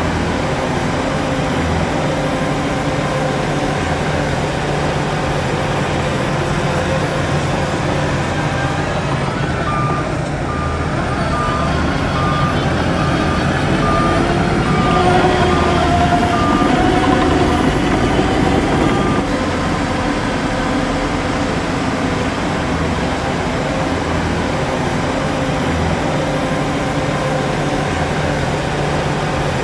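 Heavy diesel earthmoving machinery running steadily. In the middle a reversing alarm beeps at an even pace for about nine seconds while the engine note swells a little.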